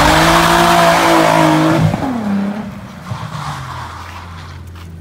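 A 1987 Volkswagen Golf's swapped-in Audi twin-turbo V6 revved hard and held at high revs with a loud rushing hiss over it, then dropping off about two seconds in; a much quieter engine sound carries on after.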